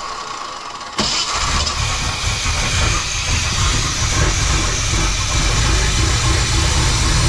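Chevy 350 small-block V8 cranking and catching about a second in, then running steadily. The distributor has just been turned to correct the ignition timing, and the engine runs a lot better for it.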